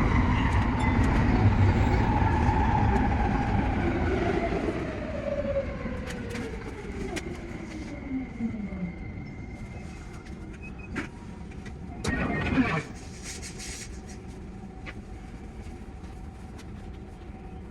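Tsukuba Express TX-3000 series electric train slowing down: its traction motor whine falls steadily in pitch and the running noise fades over about nine seconds, the sound of the train braking toward a stop. After that it is quieter and steadier, with one brief louder sound about twelve seconds in.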